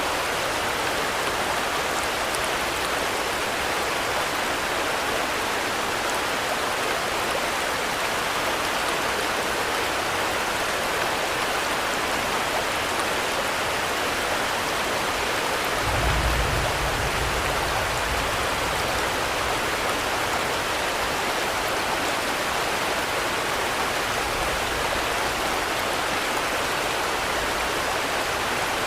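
Steady heavy rain, an even hiss of falling water that does not let up. Just past halfway a brief low rumble swells for about two seconds.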